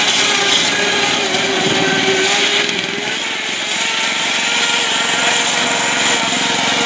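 Lawn tractor engine running steadily as the tractor drives along, with a loud transmission.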